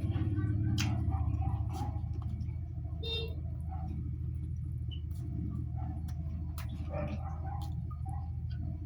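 Close-miked eating sounds, chewing with scattered wet clicks and smacks, over a steady low background hum. A brief high pitched squeak sounds about three seconds in.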